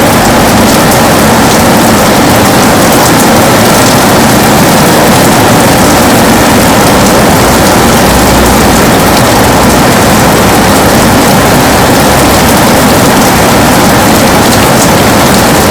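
Heavy rain falling steadily on a window: a dense, even hiss with scattered sharp drop ticks and a low rumble underneath.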